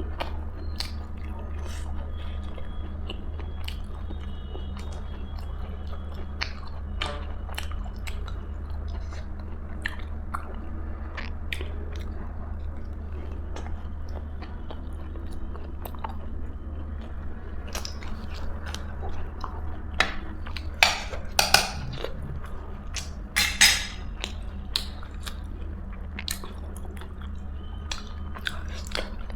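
A person chewing and eating close to the microphone, with many short, wet mouth clicks and a few louder crunchy bites about twenty seconds in. A steady low hum runs underneath.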